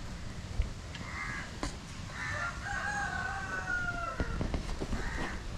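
A rooster crowing once: a long call of about two seconds that falls in pitch near its end. It is framed by shorter bird calls shortly before and near the end.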